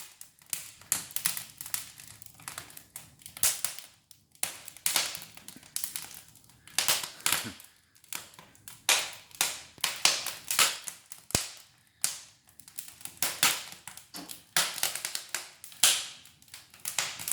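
Pine logs burning in an open brick fireplace, crackling and popping in sharp, irregular cracks, with a few louder bangs, the loudest near the end. Pine is resinous and smoky, and it pops like this as it burns.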